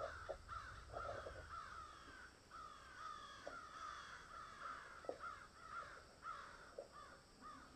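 A flock of birds calling continuously, many short downward-sweeping calls overlapping one another, with a few soft knocks underneath.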